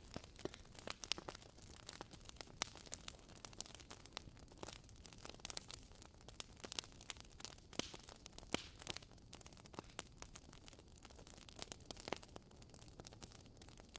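Wood fire in a fireplace crackling, with frequent irregular pops and snaps from the burning logs over a low hiss.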